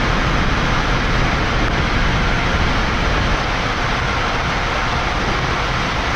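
Steady rushing noise on the flight deck of a Boeing 787-9 climbing after takeoff: airflow and engine noise, a little quieter from about three seconds in.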